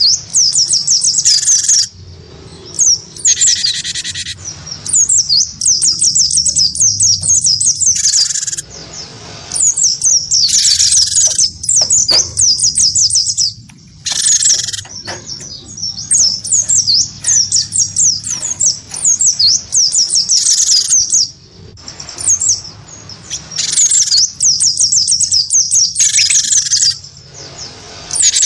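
A cinereous tit (gelatik batu) and a white-eye (pleci) singing against each other in long runs of high, rapid chirps and trills. Phrases last a few seconds, with short pauses between them.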